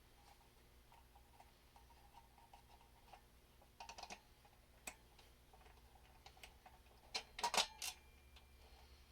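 Small ratchet clicking as it backs out the brake rotor bolts on a motorcycle wheel: faint, quick ticks, with louder bursts of clicks about four seconds in and again about seven and a half seconds in.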